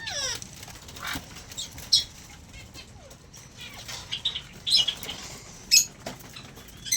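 Aviary birds flapping their wings and calling, with scattered short chirps and a falling whistled call at the start and again near the end.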